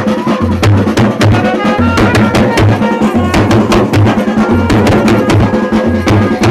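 Chhattisgarhi traditional baaja band playing Gauri Gaura festival music: drums beat a fast, steady rhythm with deep thumps, under a stepping melody line.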